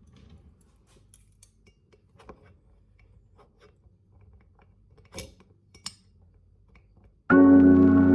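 Small kitchen handling sounds: soft clicks, snips and scrapes over a low hum, with two sharper clicks about five and six seconds in. Near the end, loud organ-like keyboard music starts abruptly.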